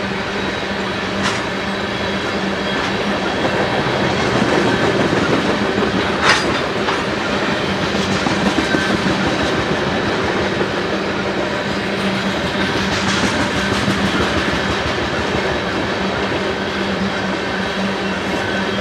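Tank cars of a freight ethanol train rolling past: a steady run of steel wheels on rail. There is one sharp clank about six seconds in, and a couple of fainter clicks.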